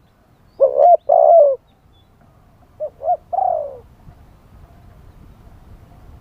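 Spotted dove cooing. There is one loud phrase about half a second in and a softer one about three seconds in, each a couple of short notes then a longer falling coo.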